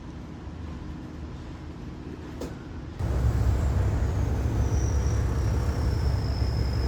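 A running engine's low, steady rumble that jumps much louder about three seconds in, with a faint high whine sliding slowly down in pitch; it cuts off abruptly at the end.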